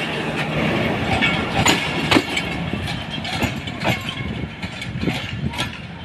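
Passenger train rolling past, its wheels clicking and knocking unevenly over the rail joints, gradually getting quieter as it moves away.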